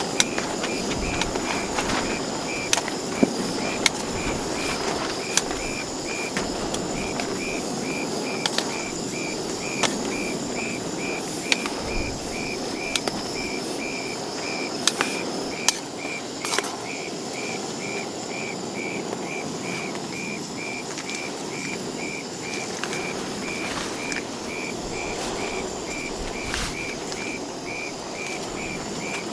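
An insect, most likely a cricket, chirping in an even rhythm of about two chirps a second over a steady background hiss, with scattered sharp ticks in the first half.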